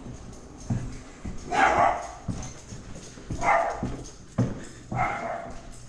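A dog barking three times, each bark about half a second long and a second and a half to two seconds apart.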